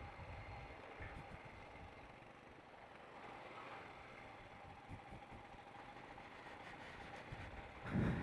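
Royal Enfield Himalayan motorcycle running, faint and steady, with a louder low sound near the end.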